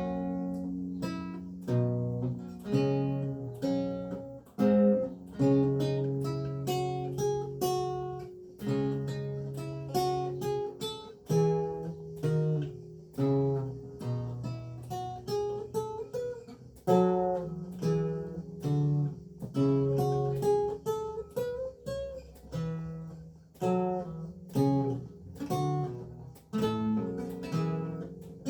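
Renaissance lute with gut strings played solo: a steady run of plucked notes and chords, each ringing and fading before the next.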